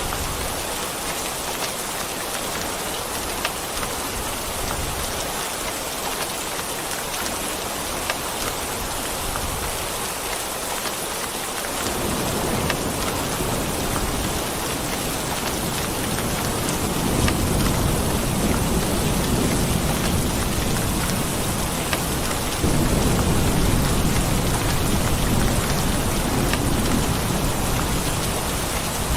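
Steady rain hissing down. About twelve seconds in, a low rolling rumble of thunder builds under it, and it swells louder about two-thirds of the way through.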